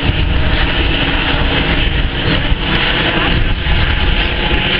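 Jet airliner passing overhead: a loud, steady engine rumble.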